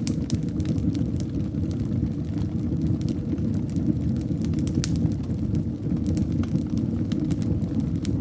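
Fire in a fireplace crackling, with many small sharp pops at irregular intervals over a steady low rumble of the flames.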